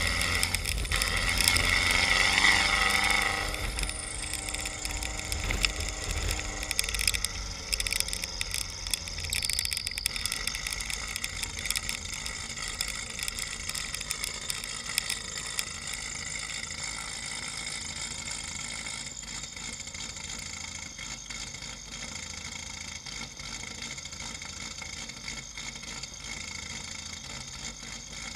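Subaru WRX's turbocharged flat-four engine, loud at first, its pitch falling over the first several seconds, then idling steadily and more quietly.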